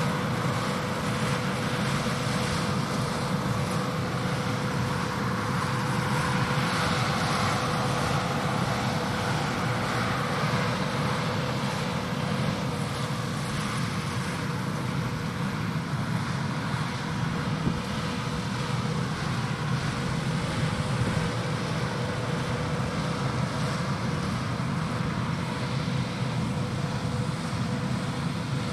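John Deere 8R tractors pulling Amadas peanut pickers, running steadily through the harvest: a constant machine noise with one steady tone through it.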